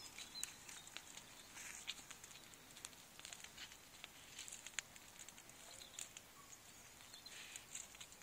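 Near silence with faint, scattered crackles and ticks.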